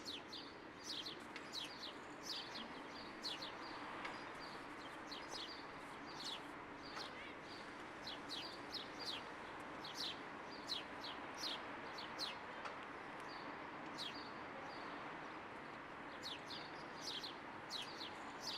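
Small birds chirping: many short, quick downward-sweeping chirps, coming irregularly and several in a row at times, over a steady background noise.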